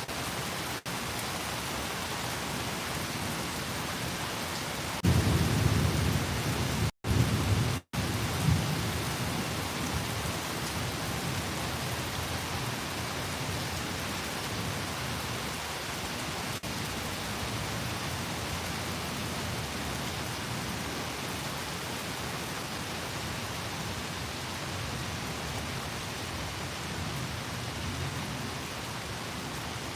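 Steady rain falling, with a clap of thunder breaking in suddenly about five seconds in and rumbling low for a few seconds before the rain alone carries on. The sound cuts out completely twice for an instant during the thunder.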